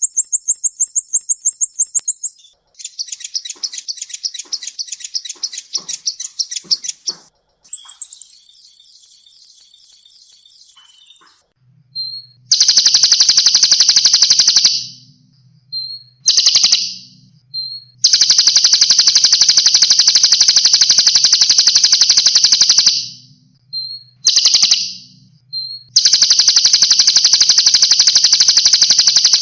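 Caged songbird recorded for masteran training song. It gives a run of very rapid, high trills over the first ten seconds or so. It then switches to long, harsh rattling phrases of a few seconds each, separated by short chips.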